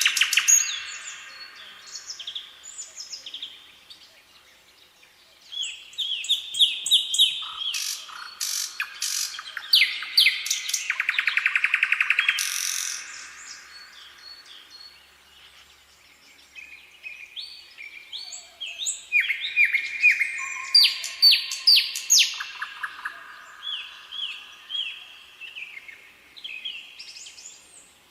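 Songbirds singing: bouts of quick chirps, repeated notes and fast trills, with short lulls about four seconds in and again around the middle.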